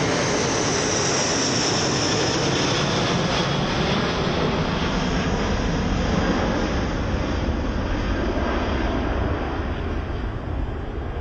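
Boeing 747 jet engines at go-around thrust as the airliner climbs away: a loud steady roar with a high whine that slowly falls in pitch and fades as it recedes.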